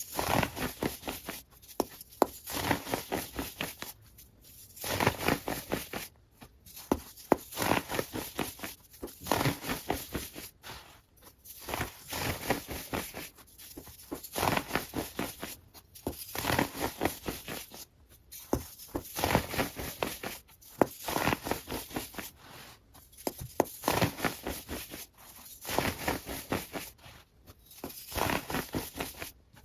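Sped-up ASMR trigger sounds: repeated bursts of rapid crackling, scratching and tapping, each lasting a second or two, with short pauses between them.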